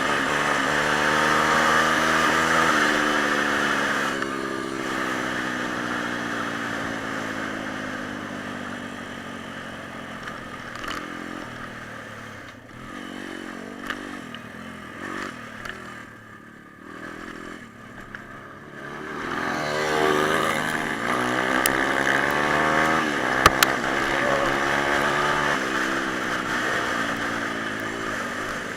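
Small single-cylinder pit bike engine revving. Its note falls away over several seconds and goes quiet and broken for a while, then picks up and climbs again under throttle. A couple of sharp clicks come in the latter part.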